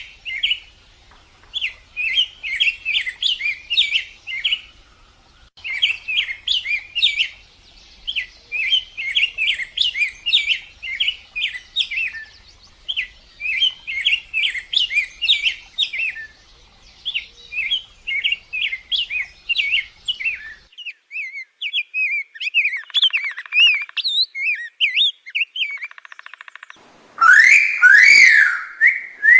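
Small songbirds chirping: repeated bursts of rapid, high chirps about two seconds long with short pauses between them. After about twenty seconds the calls turn sparser and thinner. Near the end, louder whistled notes rise and fall in pitch.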